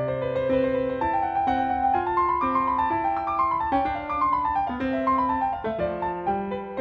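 Background music: a piano playing a gentle melody of moving notes over low bass notes.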